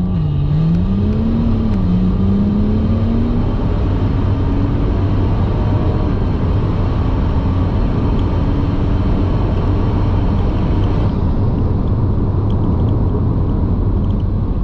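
BMW 135i's N55 turbocharged straight-six with its dual-clutch gearbox, heard from inside the cabin, accelerating through the gears. The engine note climbs and drops at quick upshifts right at the start and about two seconds in, then rises slowly and settles into a steady cruise over a constant low road and tyre rumble.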